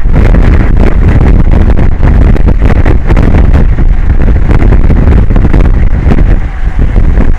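Strong wind buffeting the microphone: a loud, unsteady low rumble with rapid flutter throughout.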